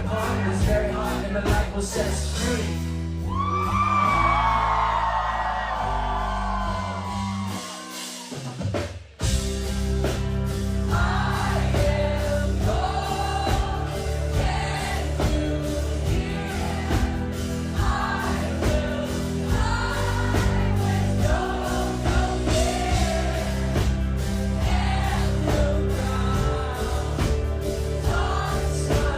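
Live rock band performing with singing. The music thins out and nearly stops about eight seconds in, then the full band with bass and vocals comes back in abruptly a second later.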